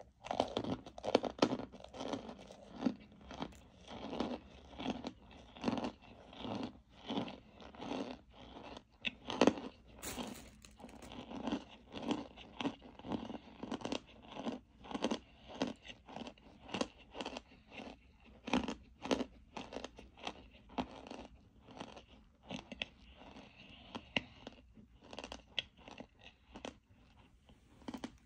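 Close-up crunching and chewing of dry, pressed powder chunks, a steady run of crisp crunches about one or two a second.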